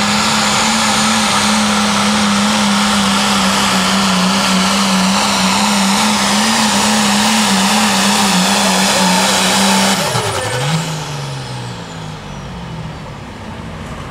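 Pro Farm pulling tractor's engine held at full throttle with a steady high note through the pull. About ten seconds in it is throttled off: the pitch drops sharply and the engine winds down, with a high whine falling away.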